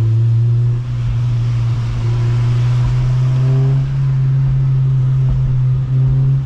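A Honda Civic Si's K20 four-cylinder engine running through a Rev9 cat-back exhaust while driving. It gives a loud, steady low drone, and its pitch edges up slightly about halfway through.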